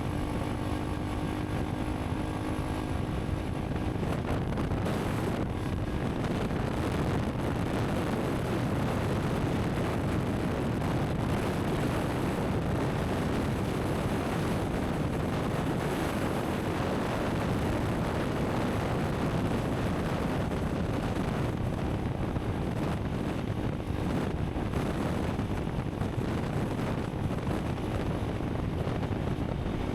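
Honda CRF300 Rally's single-cylinder engine running steadily while riding, with wind noise over the microphone. The engine's tone is clearest in the first few seconds, after which the wind and road noise cover most of it.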